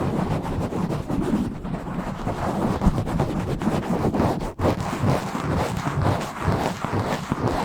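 Fingers scratching and rubbing fast and hard directly on a microphone, a dense, rough scraping with a brief break about four and a half seconds in.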